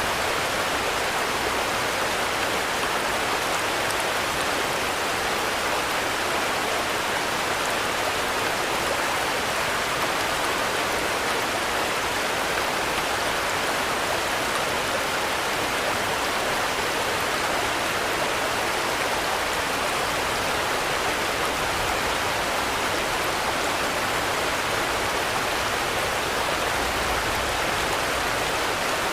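Steady, even rainfall, a dense hiss of drops that does not change in strength.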